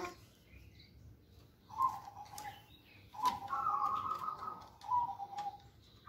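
Songbird calling: a short call that steps down from a higher to a lower note, three times about a second and a half apart, with a warbling trill between the second and third. A few light clicks.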